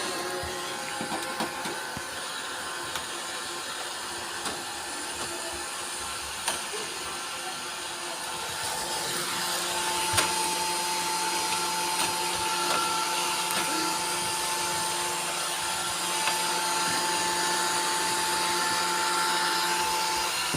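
Robot vacuum cleaners running, a steady motor and brush whir with scattered small clicks. About nine seconds in a steady whine joins and the sound gets louder, then the whine stops just before the end.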